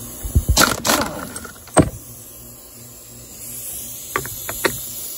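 Clicks and knocks of the Kraken Vekta RC truck being handled on a wooden surface as its body is taken off. A cluster of knocks comes in the first two seconds, the loudest just under two seconds in, and lighter clicks follow near the end.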